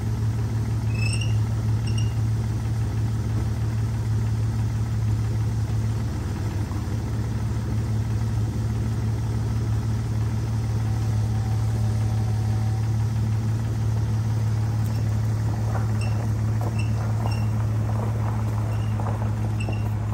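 Jeep 4.0-litre inline-six idling steadily with a constant low hum, the engine freshly started after sitting parked for a year or more.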